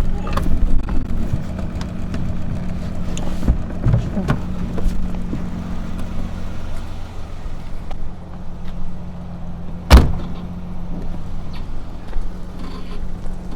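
AC Buckland's two-litre straight-six idling steadily. A few clicks and knocks are heard a few seconds in, and a car door is slammed shut with a loud bang about ten seconds in.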